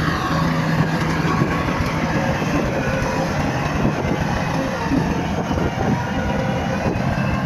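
Bulldozer's diesel engine running steadily under load, with a low hum and a dense metallic clatter of the machine working.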